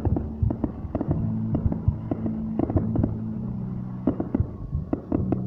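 Fireworks going off: irregular bangs and pops, several a second, over a steady low hum.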